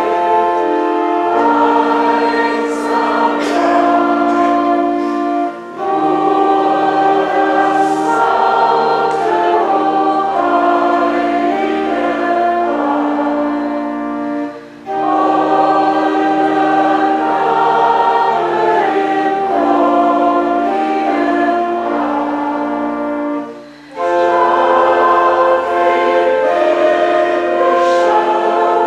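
Church choir singing a hymn over held low bass notes, in long phrases with brief breaks about every nine seconds.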